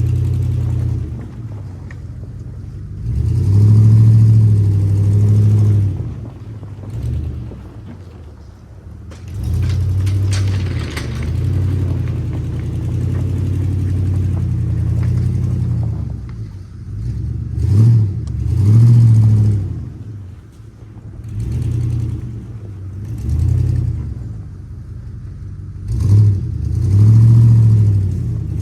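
Ford N-series tractor's four-cylinder engine working under load while plowing snow, surging and easing off in repeated spells as the blade pushes. There is a brief rattle about ten seconds in.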